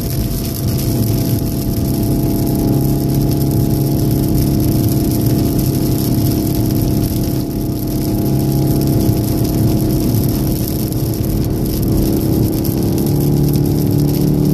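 Cabin sound of a 2014 VW Golf VII R at speed: its turbocharged 2.0-litre four-cylinder engine running under steady load, over tyre and road noise from the wet track. The engine note grows a little stronger near the end as the car speeds up.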